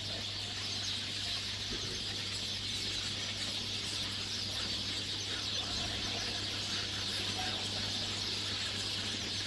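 A flock of sparrows chirping in a dense, continuous high-pitched chatter.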